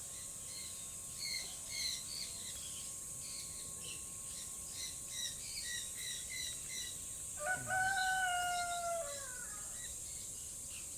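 Small birds chirping in short repeated notes, with a rooster crowing once, about halfway through, holding its note and then dropping away at the end. A steady high insect-like hiss sits underneath.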